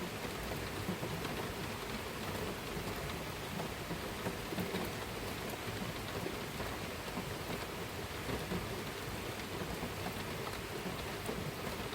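Heavy rain falling: a steady hiss dotted with the small ticks of individual drops.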